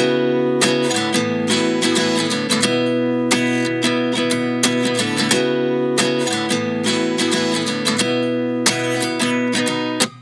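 Background music: strummed acoustic guitar chords with a steady rhythm, no singing yet.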